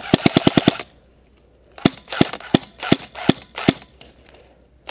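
Airsoft gun firing: a rapid burst of about seven shots in the first second, then, after a short pause, six single shots about a third of a second apart.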